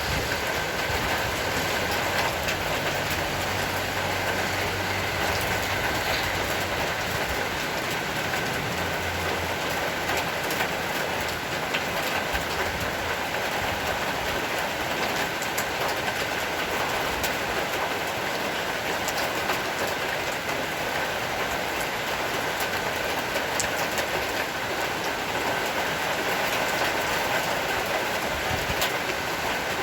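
Heavy rain falling steadily: a constant, even hiss that neither builds nor eases.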